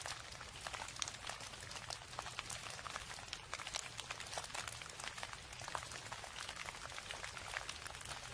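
Rain falling steadily, a dense patter of many small drops with a faint low hum underneath.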